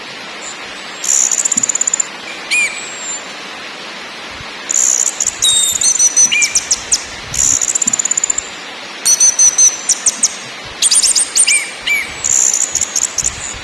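Orange-headed thrush singing in short bursts of high, rapid trills and whistles, a new burst every second or two, over a steady background hiss.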